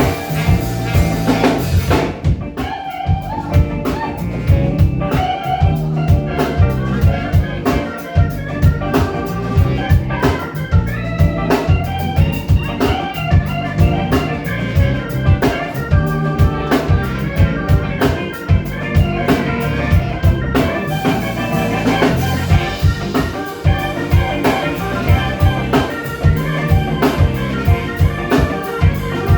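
Live blues band playing an instrumental passage: drum kit keeping a steady beat under organ and guitar.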